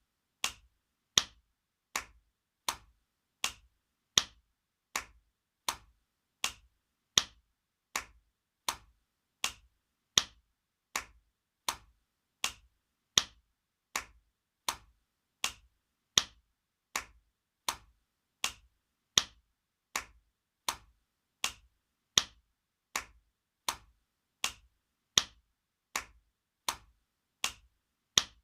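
Spanking sound effect: a hand smacking skin, a sharp slap repeated evenly about every three quarters of a second, with every fourth slap louder.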